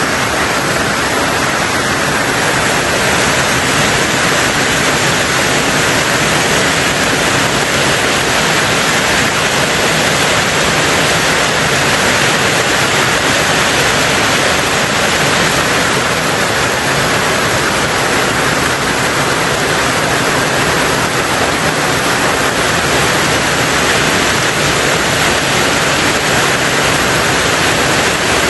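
Rain falling steadily on a tin roof, a dense, even hiss with no single drops standing out.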